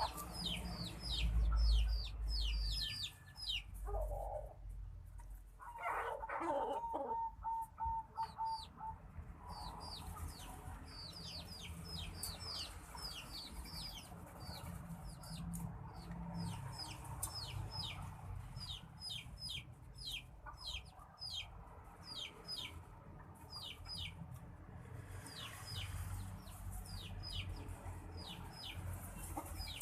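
Birds chirping: a rapid run of short, high, descending chirps, several a second, with a pause of a few seconds, and a lower, louder call with a held note about five seconds in.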